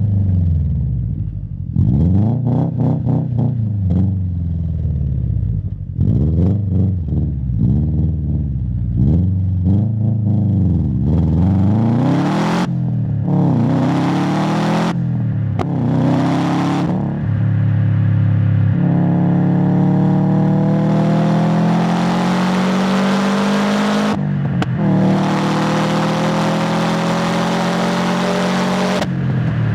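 Exhaust of a 2016 Subaru WRX STI's turbocharged EJ257 boxer engine, recorded close to the tailpipe while driving. For the first dozen seconds the revs rise and fall again and again; then the engine pulls in gear with its pitch climbing steadily, broken by gear changes about 24 and 29 seconds in.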